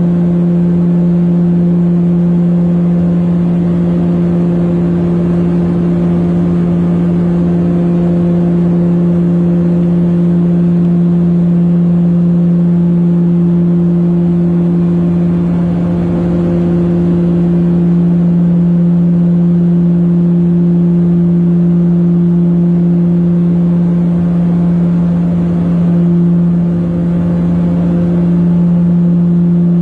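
Propeller aircraft engines running steadily, with a strong, even low hum and its overtone over a steady rush of noise.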